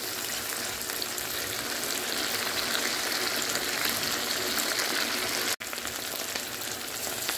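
Chicken pieces frying in oil and tomato masala in a karahi, a steady sizzle: the oil has separated from the masala, the bhuna stage of the cooking. The sound drops out for an instant about five and a half seconds in.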